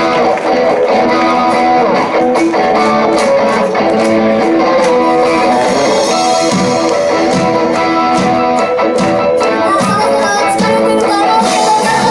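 A rock band playing with the guitars to the fore, strummed and picked, and no vocals.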